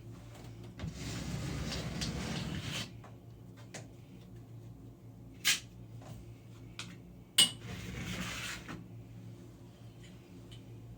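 A plastic key card scraping spackle across a drywall ceiling patch in two long smoothing strokes, with two sharp clicks between them.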